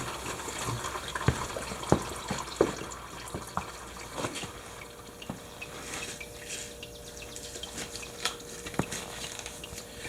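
Old engine oil draining from the Kymco MXU 450 ATV's engine into a drain pan: a steady trickle with scattered, irregular drips.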